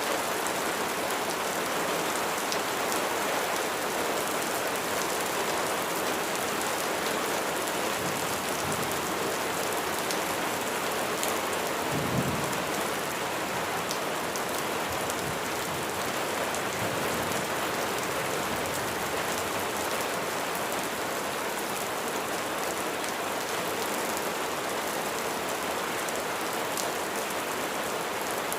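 Heavy, steady rain pattering densely on a surface, with a brief low rumble about twelve seconds in.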